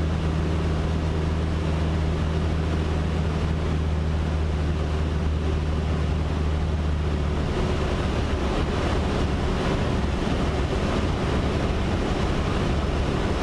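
Cessna 152's four-cylinder Lycoming engine and propeller droning steadily in flight, heard inside the cabin with a steady rush of air. About seven seconds in, the low engine hum becomes rougher and less even.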